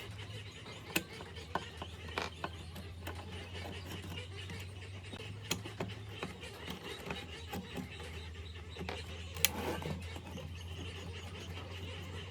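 Scattered light clicks and knocks of metal tool parts being handled, with one sharper knock near the end, over a steady low hum.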